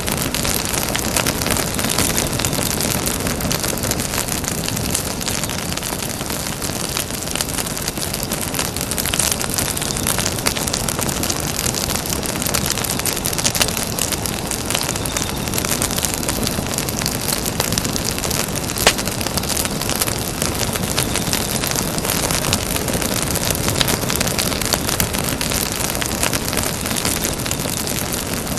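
Campfire burning with a steady hiss and dense crackling from the burning wood, with one sharper pop about two-thirds of the way through.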